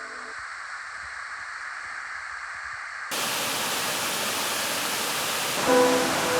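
Steady rush of water falling over a waterfall cascade, a plain hiss that jumps louder and fuller about three seconds in.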